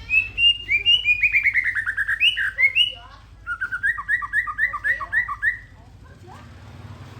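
A songbird singing two rapid phrases of short repeated chirping notes, the first stepping down in pitch over about three seconds, the second following after a brief pause and ending about six seconds in. A low steady hum lies beneath.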